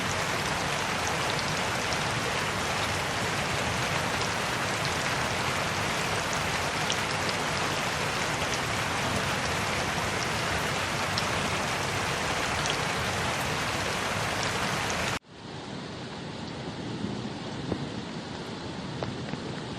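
Steady, dense rain falling, with small scattered drop ticks. About three-quarters of the way through it cuts off abruptly and gives way to quieter, duller rain.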